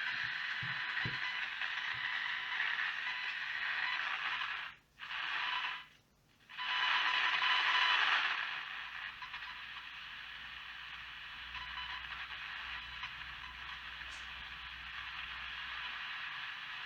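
Static hiss from an old Philips transistor radio's speaker with no station tuned in, the set apparently working but picking up no signal. The hiss cuts out twice briefly about five and six seconds in, comes back louder for a couple of seconds, then settles to a quieter steady hiss.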